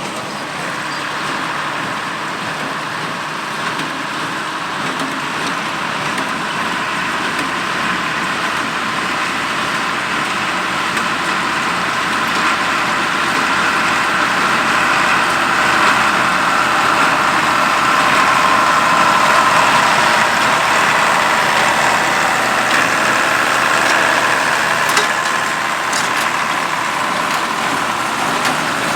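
Allis-Chalmers 200 tractor's turbocharged six-cylinder diesel running steadily while working a New Holland 273 square baler, slowly growing louder. A few sharp clicks near the end.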